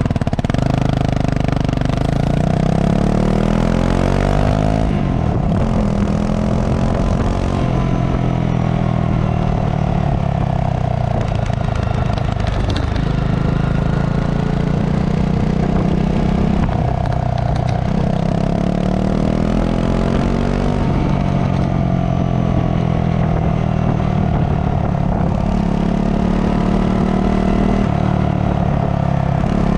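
Honda CRF250 single-cylinder four-stroke motorcycle engine on its stock exhaust, running continuously and climbing in pitch then dropping back several times.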